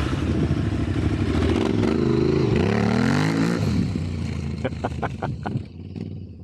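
Motorcycle engine running and revving: its pitch climbs and drops back about three and a half seconds in, then eases off, followed by several sharp clicks near the end.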